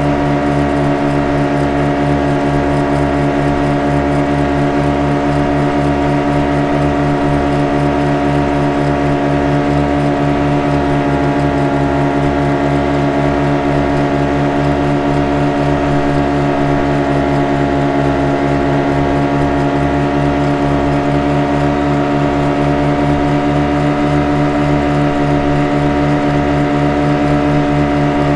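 Boat engine running at a constant speed: a steady drone with an even, fast low throb.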